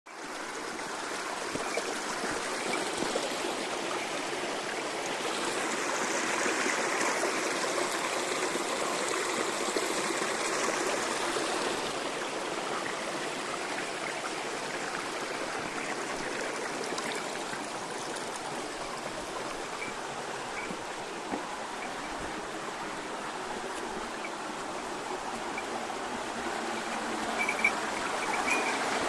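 Shallow mountain stream babbling, a steady rush and trickle of running water.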